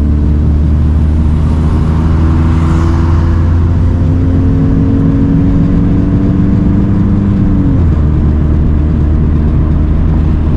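1988 Toyota Celica ST162's four-cylinder engine heard from inside the cabin while driving, its note rising slowly under throttle. About eight seconds in, the pitch drops suddenly.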